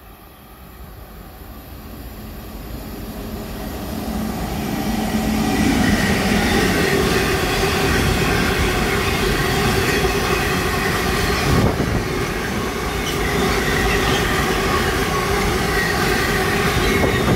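A train approaching and passing close by: its running noise swells over the first five or six seconds, then stays loud and steady with several steady high tones over the rumble, and one sharp clack about two-thirds through.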